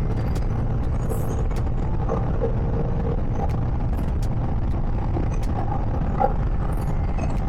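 Motorcycle riding at a steady speed: a constant wind rush over the microphone with the engine running underneath.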